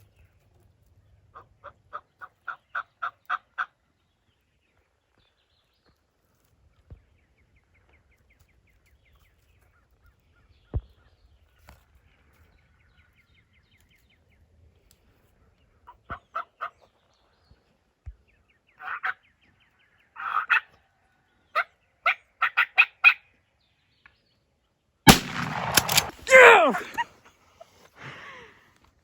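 Wild turkey yelps and clucks in short series, the clucking a sign that the bird is alarmed and about to flush. About 25 seconds in, one loud 12-gauge shotgun shot, followed by a couple of seconds of noisy commotion.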